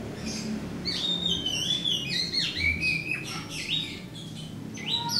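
Oriental magpie-robin (white-breasted kacer) singing: a rapid run of varied, sliding whistled notes for a couple of seconds, a short pause, then more notes starting near the end.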